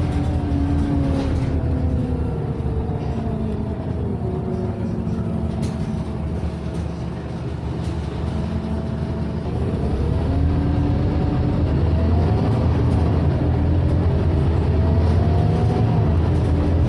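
Scania Omnicity city bus heard from inside the cabin: the diesel engine's whine falls as the bus slows over the first few seconds, then rises again as it pulls away from about ten seconds in, over a steady low rumble of engine and cabin ventilation.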